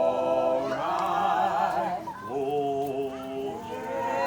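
Several voices singing together in harmony, holding long notes with vibrato and moving to a new chord about two seconds in.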